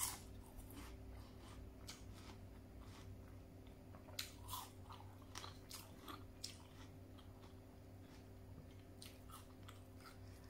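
A person biting into a raw pear slice, with a sharp crisp bite at the start, then chewing with scattered soft crunches and wet mouth sounds. A faint steady hum runs underneath.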